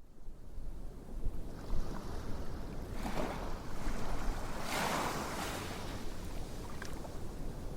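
Ocean waves washing onto a shore, swelling about three seconds in and again more strongly about five seconds in, over a steady low rumble.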